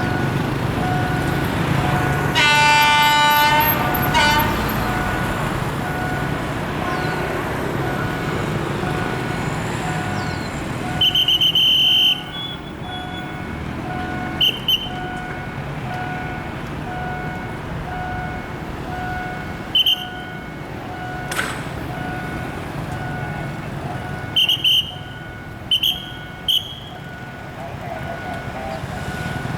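Diesel-electric locomotive horn blowing about two seconds in, one long blast and then a short one, over the low running of the locomotive's engine as the train pulls away. A steady repeating beep sounds throughout, and several short, high whistle blasts come in the second half.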